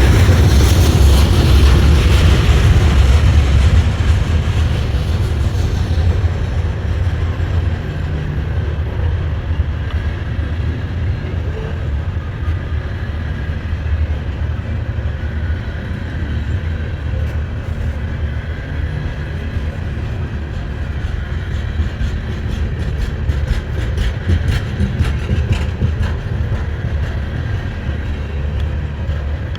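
Long Norfolk Southern freight train rolling slowly past on the rails, a steady low rumble. It is louder and hissier for the first few seconds, with faint clicks and rattles later on.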